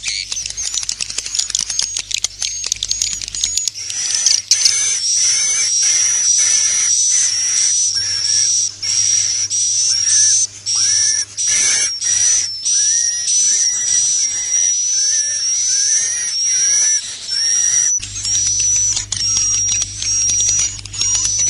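Swiftlets twittering in a dense, continuous stream of rapid high-pitched chirps over a constant low hum. This is a swiftlet-house 'inap' (roosting) lure call, meant to draw swiftlets in to roost. The mix of calls changes about three and a half seconds in and again near the end.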